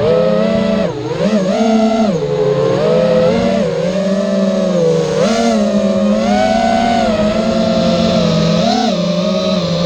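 210-size FPV racing quadcopter's brushless motors whining in flight, the pitch rising and falling with throttle. The whine carries an odd resonance-like noise that the owner traced to a faulty ESC.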